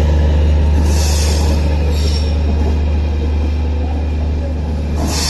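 Passenger train running past: a loud steady low rumble, with brief high-pitched rushes of wheel noise about a second in, two seconds in and again near the end.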